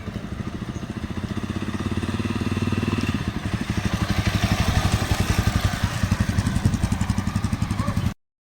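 Yezdi Adventure motorcycle's single-cylinder engine running on the move, its exhaust pulses growing louder over the first few seconds. There is a brief dip about three seconds in, then louder steady running until the sound cuts off abruptly near the end.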